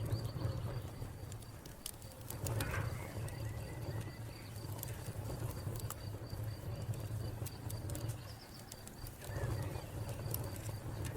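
Wood fire crackling, with irregular sharp pops over a steady low rumble, while a cricket chirps in a fast, even pulse high above it.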